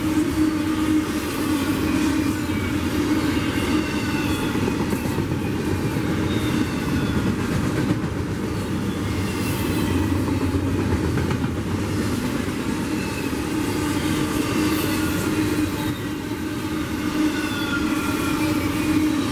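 Double-stack intermodal container well cars of a freight train rolling past at speed: a steady noise of steel wheels on the rails, with thin high squeals coming and going.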